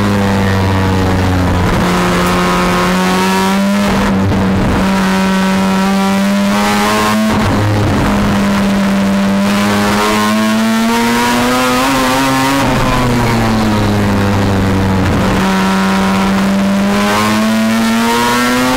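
Mazda RX-4's rotary engine racing, heard loud from inside the cabin. The engine note climbs and falls under full throttle, with several brief breaks in the power.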